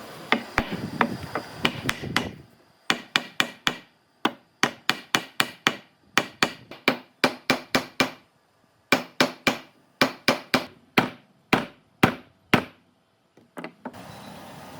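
Hammer blows striking wood, sharp knocks with a brief ring, coming about two to three a second in short runs with short pauses between them.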